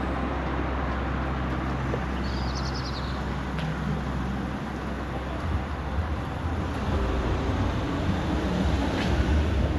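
Outdoor street ambience: a steady low rumble of road traffic that grows a little louder near the end, with a brief high trill about two and a half seconds in.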